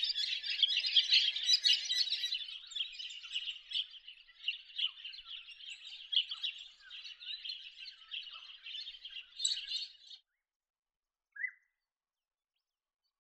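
A flock of masked woodswallows chattering, with many overlapping chirps, which cuts off suddenly about ten seconds in. One short chirp follows.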